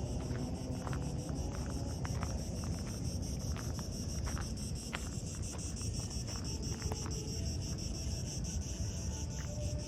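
A chorus of insects chirping, a steady high-pitched song pulsing rapidly and evenly, over a low rumble and a few faint ticks.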